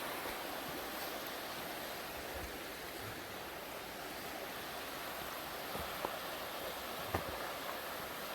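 Swollen river running high after heavy rain: a steady rush of water. Two faint sharp clicks come about six and seven seconds in.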